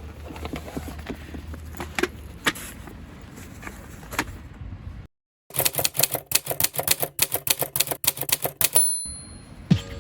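Typewriter typing sound effect: a rapid run of sharp keystroke clicks for about three seconds, ending in a brief high ring. It comes in after a sudden cut to dead silence. Before the cut there are faint outdoor background noise and scattered clicks.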